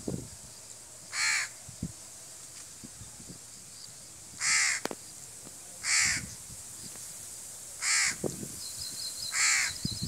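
A bird calling five times, single short calls one to two seconds apart, over a quiet outdoor background. Near the end a faint, fast ticking trill runs alongside the calls.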